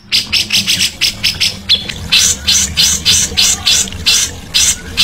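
Songbird giving a fast series of harsh, rasping chattering notes, about four to five a second with brief pauses.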